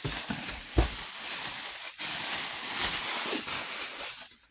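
Rustling handling noise, as of packaging or paper being moved about, with a few dull knocks, the loudest about a second in; the rustling fades out near the end.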